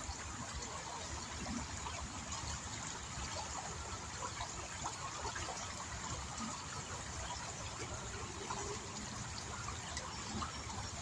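Small river's water trickling and flowing steadily, a constant even rush with fine splashy detail.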